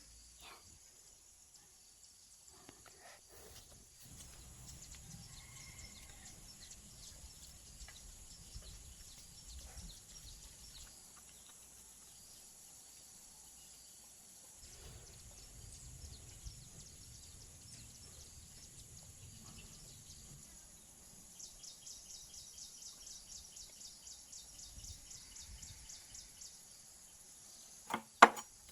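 Insects buzzing in a steady high-pitched drone. A faster pulsing trill joins for a few seconds about two thirds through. A low rumble comes and goes, and two sharp knocks sound near the end.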